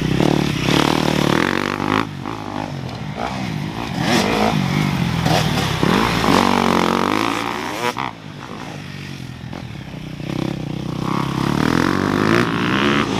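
Dirt bike engine revving up and dropping off again and again as it is ridden, with a clear let-off about eight seconds in before the revs build again.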